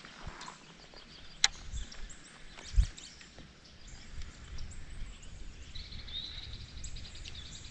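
A bird chirping in a quick repeated series during the second half, over a faint outdoor background. A sharp click comes about a second and a half in, and a dull low thump near three seconds.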